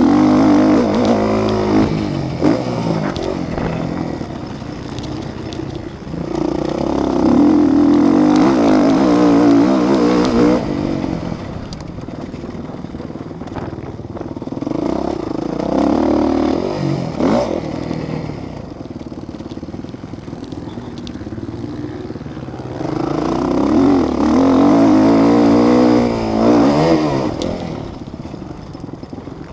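Motocross bike engines revving hard in several loud waves as the bikes pass, the pitch climbing and dropping with throttle and gear changes.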